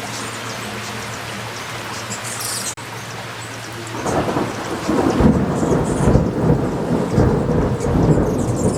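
Heavy rain falling steadily, then about four seconds in a louder, deep rumbling swells up and carries on as the downpour comes down harder.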